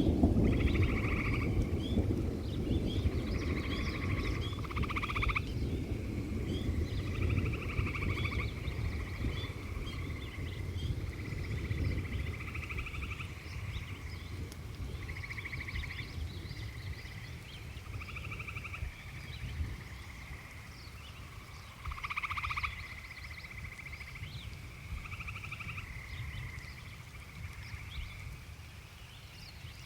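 Frogs calling in pulsed trills about a second long, one after another, with faint high chirps among them. A low thunder rumble dies away over roughly the first ten seconds.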